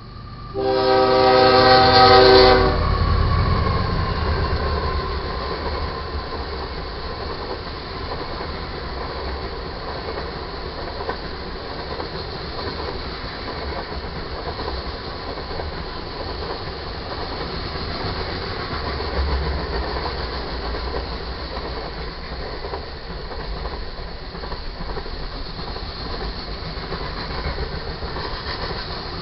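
A diesel locomotive air horn sounds one chord blast about a second in, lasting about two seconds. After it, freight cars of a passing manifest train roll by steadily, their wheels rumbling and clattering on the rails.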